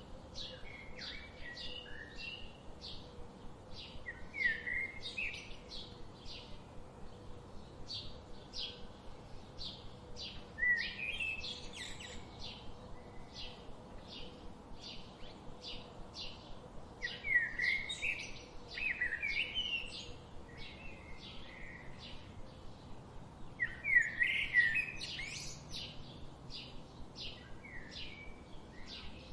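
Songbirds singing. A short high chirp repeats about twice a second throughout, and louder warbling song phrases break in four times.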